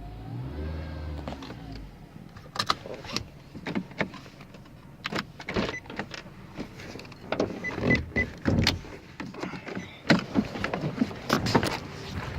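A 2013 Nissan Altima coupe's engine revving briefly with a whine that rises and falls in pitch in the first two seconds. After that comes a long run of irregular clicks and knocks.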